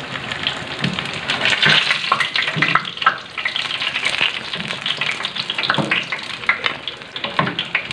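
Battered stuffed tofu frying in shallow oil in a nonstick pan, with a steady crackling sizzle. A wooden spatula scrapes under the pieces to lift them out, giving a few soft knocks against the pan.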